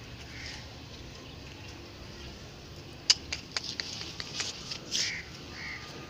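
Short bird calls over a steady background, with a quick run of sharp clicks and taps in the second half.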